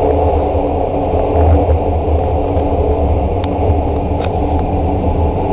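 Express train running at speed through the Seikan undersea rail tunnel, heard from inside the passenger car: a steady rumble with a low drone and a few faint ticks.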